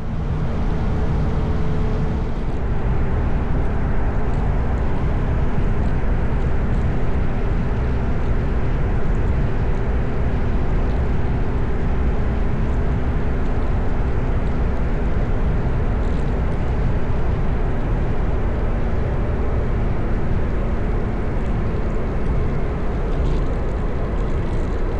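Motorcycle riding at steady speed: wind rushing over the microphone, with the engine's steady hum underneath.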